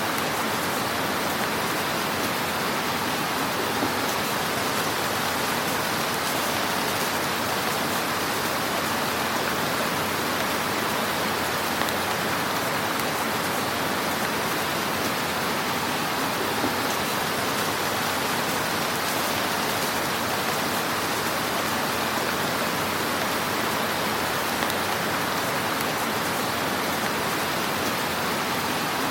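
Fire crackling in a fireplace: a steady, even hiss with a few faint pops here and there.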